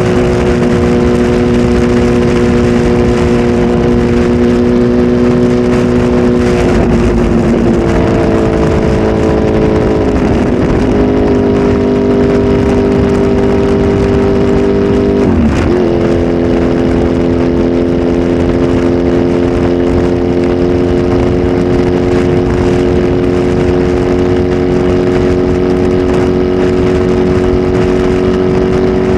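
Kawasaki Z H2 SE's supercharged inline-four, flash-tuned and breathing through a full aftermarket exhaust system, running loud at steady revs. Three times the engine note briefly dips and comes back up, about 7, 10 and 15 seconds in.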